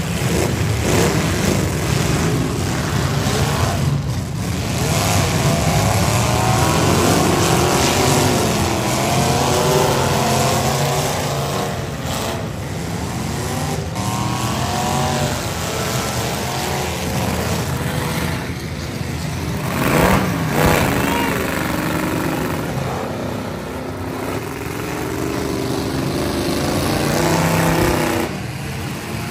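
Several V8 demolition derby car engines revving hard at once, their pitch rising and falling over and over, loudest about twenty seconds in.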